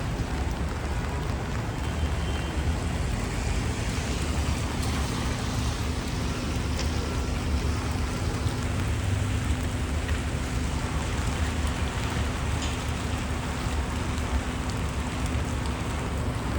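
Steady rain falling on a city street, mixed with the low rumble of traffic and a faint steady hum.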